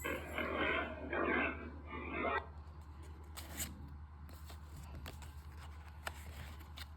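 Pig grunting, a few rough grunts in the first two and a half seconds, then only faint clicks.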